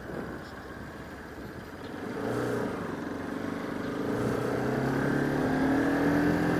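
Single-cylinder engine of a Bajaj Pulsar RS200 motorcycle heard from the rider's helmet camera. Wind and road noise come first; about two seconds in, the engine note comes up and climbs slowly in pitch as the bike accelerates.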